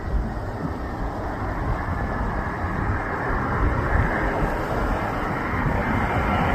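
Jet airliner approaching to land: its engine noise is a steady rushing sound that grows slowly louder.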